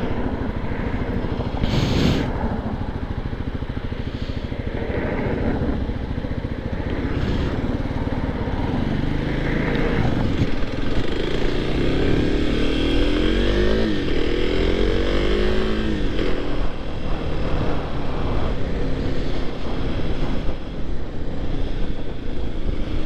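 Supermoto motorcycle engine running while riding. Roughly halfway through its pitch rises twice with a dip in between as it accelerates.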